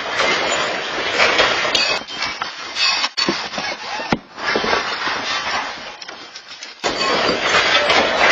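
Household objects clattering and crashing under strong earthquake shaking, with scattered sharp knocks over a steady loud noise. The noise jumps suddenly louder near the end.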